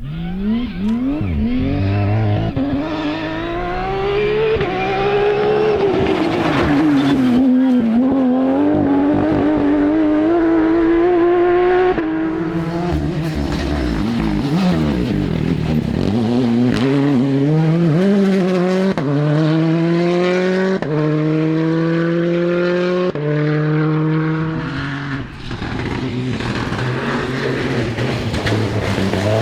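Rally car engines at full throttle, revving up and dropping off for corners, with a quick run of upshifts in the later part.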